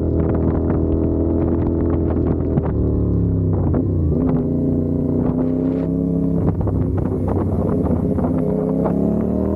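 CFMOTO 450SR's parallel-twin engine running under way. Its pitch holds, dips about three to four seconds in as the rider eases off, then holds lower and starts to climb again near the end, with wind buffeting the microphone.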